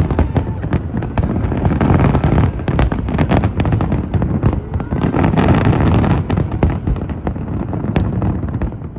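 Dense fireworks barrage: aerial shells booming and crackling in rapid, overlapping succession, easing off right at the end.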